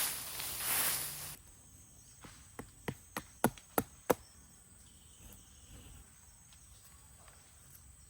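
Hand drill friction fire: a wooden spindle spun between the palms in a fireboard, a rasping rub that swells with each stroke and stops abruptly about a second and a half in. Then six sharp taps, about three a second.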